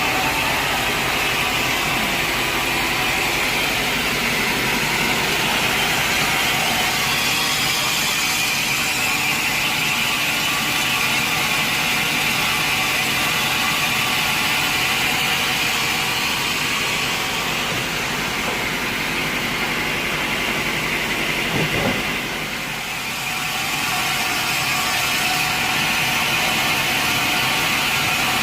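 Sawmill machinery running steadily, a loud, even mechanical drone. About three quarters of the way through it dips briefly, with a short knock.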